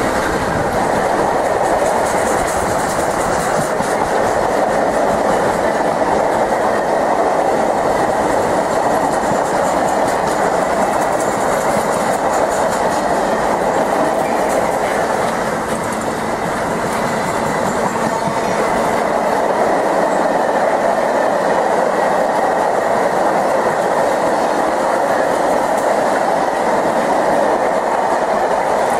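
Train running through the station, a steady loud rumble of wheels on rail with clickety-clack over the rail joints, continuing unbroken.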